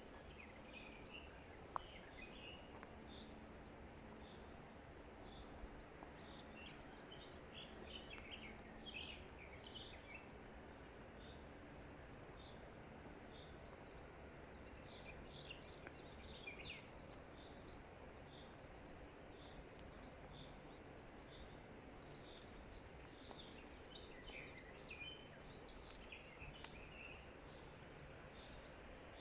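Wild songbirds chirping and calling faintly, in scattered bursts of short high notes, over a steady low background hiss. A single sharp click about two seconds in.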